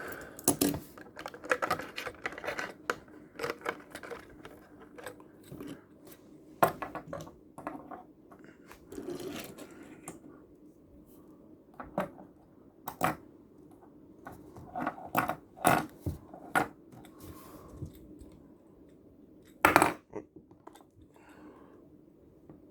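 Plastic blister packaging of a toy-car 3-pack being pried and torn open, crackling and popping, with small die-cast toy cars clicking and clacking against the plastic and each other. The clicks come irregularly, with the loudest crackle a little before the end.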